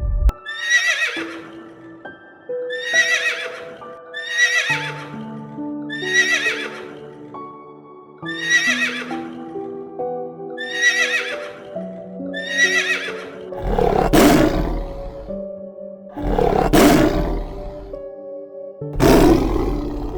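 An equine calling over soft background music: about eight short, high, falling whinny-like calls, one every second or two, then three louder, deeper calls in the last six seconds.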